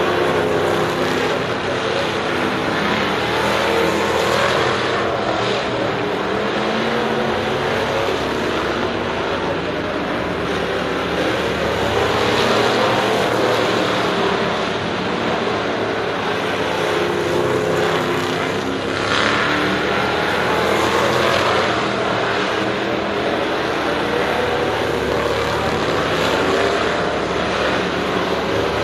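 Several race car engines running hard around the track. The engine note stays loud and steady, swelling and fading as cars pass, with a louder pass about 19 seconds in.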